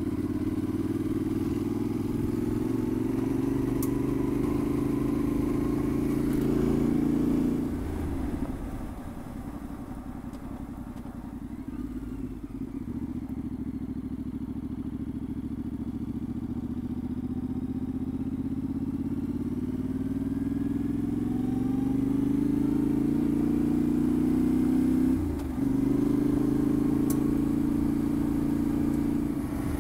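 Yamaha Ténéré 700's parallel-twin engine running under way on a dirt road. It eases off about eight seconds in, then slowly builds revs again, with a brief dip about twenty-five seconds in.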